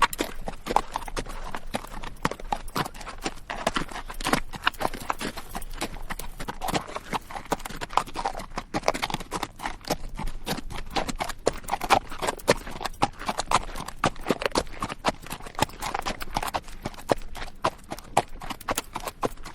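Horse hooves clip-clopping on rocky dirt at a steady, unhurried walk: many irregular knocks a second, with the rattle of the bridle tack among them.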